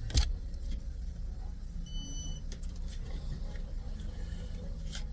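Car engine idling steadily, heard from inside the stopped car. A sharp click comes just after the start, a short high electronic beep about two seconds in, and another click near the end.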